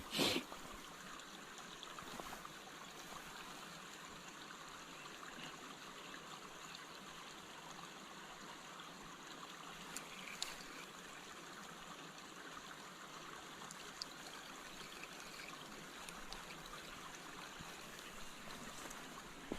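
Creek water running steadily, an even rushing hiss, with a brief louder noise right at the start and a few faint clicks.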